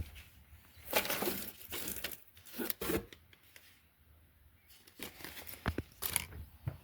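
Plastic parts bags crinkling and rustling in short, irregular bursts as they are handled.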